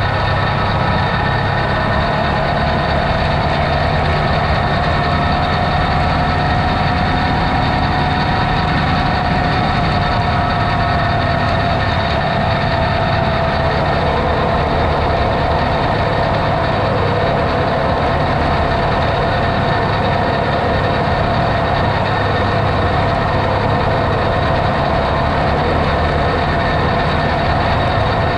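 Off-road vehicle's engine running steadily, with a constant whine above it that drifts slightly up and down in pitch.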